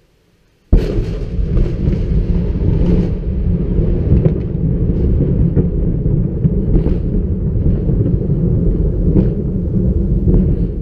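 A very close thunderclap: a sudden sharp crack a little under a second in, then a loud, continuous low rumble with scattered crackles.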